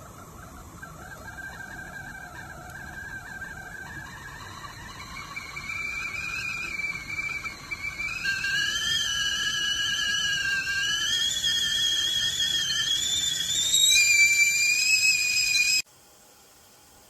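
Stainless steel whistling tea kettle whistling as the water comes to the boil. The whistle climbs in pitch in steps and grows steadily louder, with two or three tones sounding at once, then cuts off suddenly near the end.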